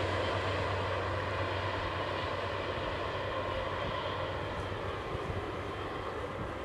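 Steady rumble and hum of trains on the line: a freight train with electric locomotives and a regional multiple unit running on the double track, slowly getting a little quieter.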